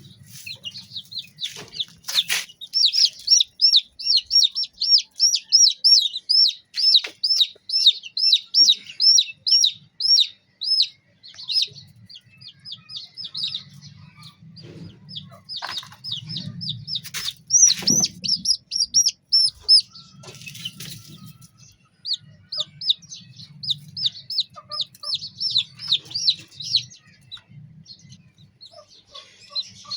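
Young chicks peeping: runs of short, high, evenly repeated peeps, about three a second, that pause and start again several times. A few sharp knocks sound in between, the loudest about two seconds in and about eighteen seconds in.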